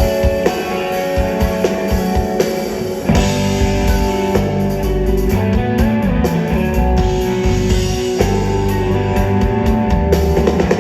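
Live rock band playing an instrumental passage: electric guitars ringing out over bass and drum kit, the drums coming in fuller about three seconds in.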